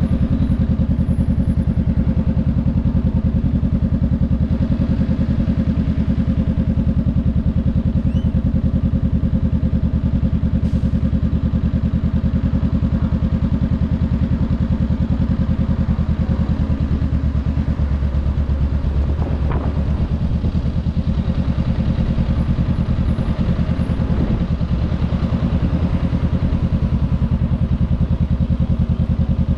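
Honda Rebel 500's parallel-twin engine idling steadily with even exhaust pulses.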